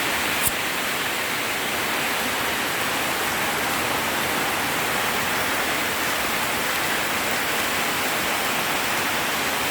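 Heavy rain falling, a steady even hiss. There is one short click about half a second in.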